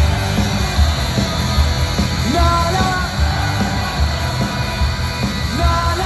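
Live indie rock band playing loud through a venue PA, with a steady drum beat and guitars, and the crowd yelling along.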